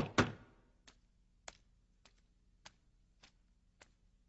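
Cartoon sound effect: a brief clatter of loud clicks at the very start, then light, evenly spaced ticks, a little under two a second.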